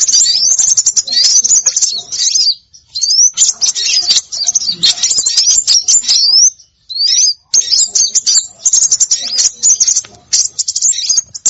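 Dense, high-pitched chirping and twittering of small songbirds, with rapid trills and quick rising whistled notes, broken twice by short pauses. It is a bird-lure recording meant to call small birds in.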